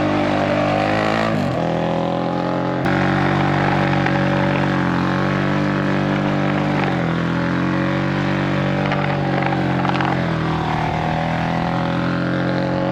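Single-cylinder 450 cc supersingle engine of a Honda CRF450X-based track motorcycle running hard. Its pitch falls several times and climbs again as the rider shifts and brakes, with a sudden jump a few seconds in.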